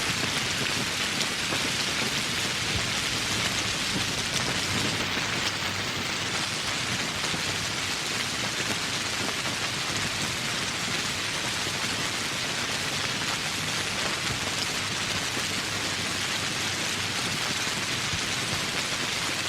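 Steady rain falling on foliage and surfaces, an even hiss of many drops without letup.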